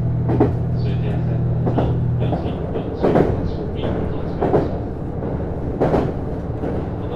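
Running sound inside a JR East HB-E210 hybrid diesel-electric railcar. A steady low drive hum stops about two and a half seconds in. The wheels clunk over rail joints at regular intervals of about a second and a half.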